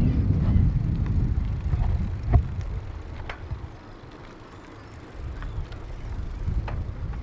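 Wind rumbling on the microphone of a bicycle in motion, with scattered sharp clicks and rattles from the bike. The rumble dies down for a second or so past the middle, then builds again.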